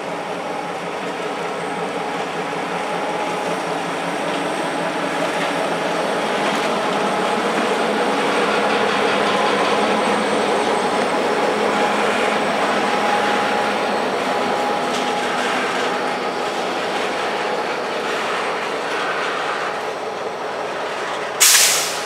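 Train rolling past, its steel wheels running over the rails in a steady rumble and clatter that builds to its loudest around the middle and then eases off. Near the end comes a short, loud burst of hiss.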